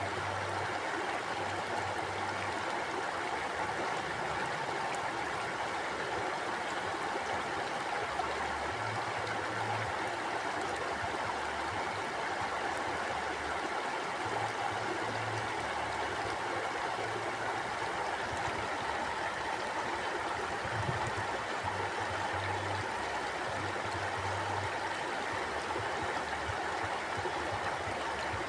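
Mountain river flowing: steady rushing and gurgling of water over rocks, with a low rumble underneath.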